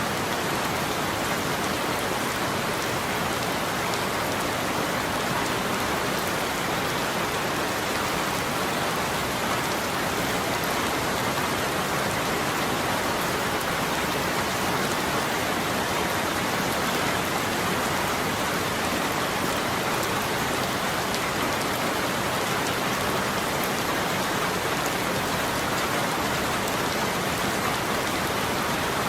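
Steady rain falling on surfaces, an even hiss with fine patter of drops, unchanging throughout.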